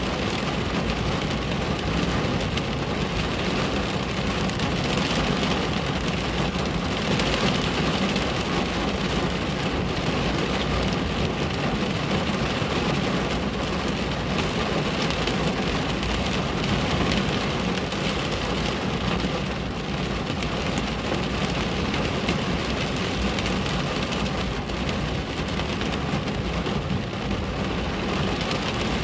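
Steady rain falling on a window: an even, unbroken hiss of drops with no pauses or single loud strikes.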